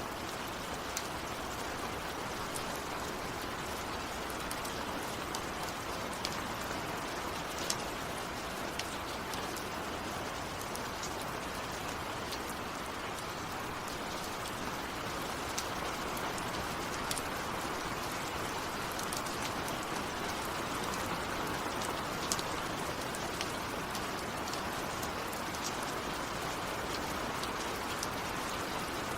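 Steady rain falling on a surface, a continuous hiss with scattered sharp drop impacts.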